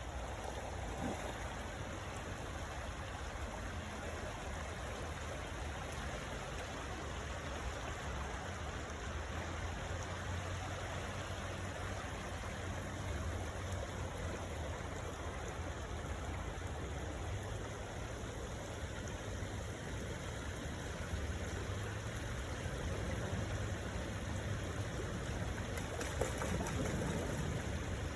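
Stream water running and trickling steadily, slightly louder near the end.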